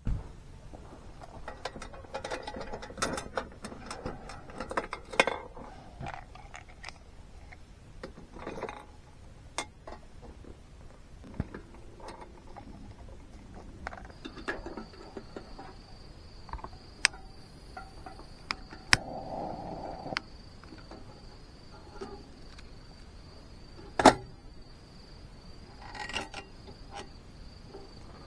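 Scattered clicks, knocks and clatter of objects being handled, the sharpest knock about two-thirds of the way in. About halfway through, a high-pitched insect trill starts and carries on steadily.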